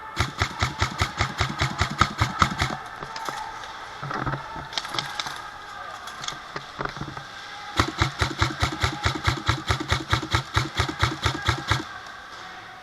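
Airsoft gun firing on full auto: two long strings of rapid, evenly spaced shots, about seven a second, the first for about three seconds and the second from about eight seconds in for about four seconds, with a few single shots between.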